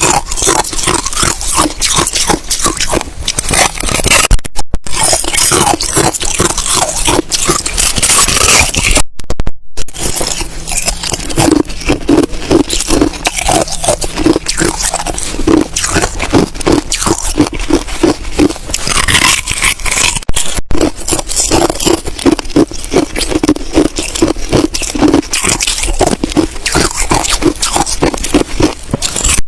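Hard ice being bitten and chewed close to the microphone: a continuous run of loud, crisp crunches in a steady rhythm of about two a second. It drops out briefly three times.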